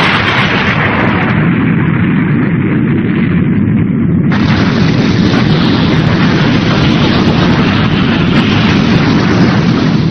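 Animated sound effect of a spaceship exploding: a long, loud, continuous blast, with a fresh, brighter explosion breaking in about four seconds in and running on.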